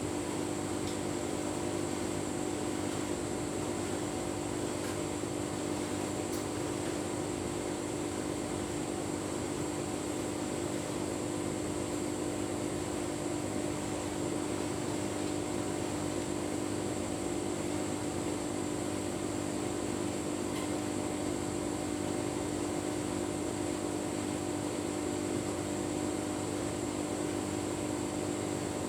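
Tumble dryer running on a cottons cycle with a full load of bedding: a constant motor and fan hum with a steady low tone and a faint high whine.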